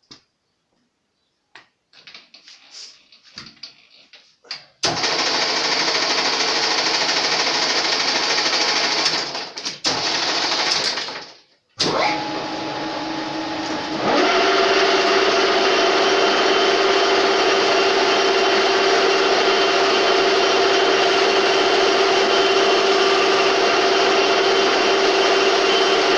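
A few light handling clicks, then a metal-turning lathe running with a steady mechanical whine. It runs down and stops around ten seconds in, starts again about a second later, and steps up to a louder, higher steady run a couple of seconds after that.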